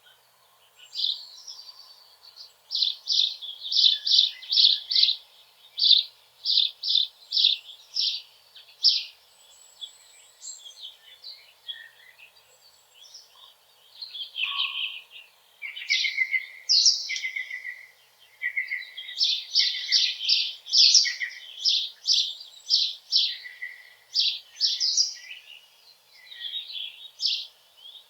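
Small songbirds singing: quick series of high repeated notes, several strokes a second, with a second line of lower notes joining from about halfway through.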